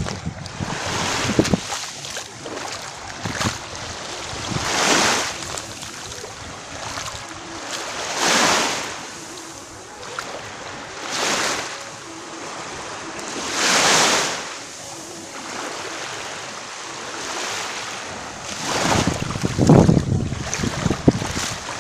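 Small sea waves washing onto a sandy beach, each surging and fading in turn about every three seconds. Wind rumbles on the microphone at the start and near the end, loudest together with a wave about twenty seconds in.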